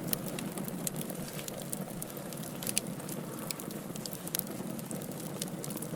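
Wood logs burning in a fire, a steady low rush with frequent irregular crackles and pops, one a little louder partway through.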